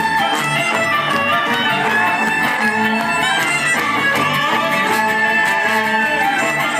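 Acoustic gypsy-folk band playing a Romanian-inspired bulgar dance tune live. Violin and guitar are to the fore over a double bass line pulsing steadily in the low end.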